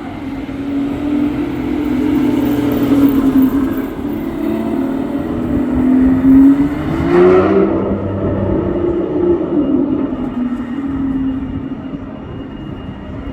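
A loud car engine revving and accelerating past, its pitch rising and falling, loudest about six to seven seconds in.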